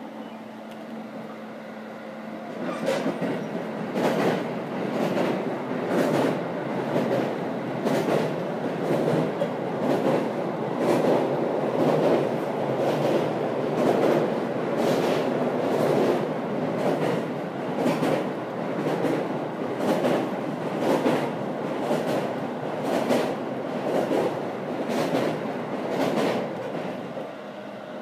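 A JR 313 series electric train, heard from inside the carriage, running over the steel truss bridge across the Fuji River. The rumble grows louder and heavier about two seconds in, with regular clacks about once a second, and drops back near the end as the train leaves the bridge.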